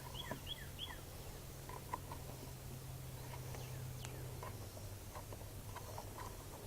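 Faint bird chirping in short, quick high notes that come in little runs, over a steady low hum that fades out about two-thirds of the way through. A few light ticks sound here and there.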